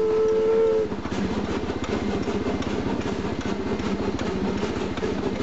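The steam whistle of a narrow-gauge steam locomotive, a steady chord, cuts off about a second in. Under it, and on alone afterwards, a Kawasaki KLR650's single-cylinder engine runs steadily.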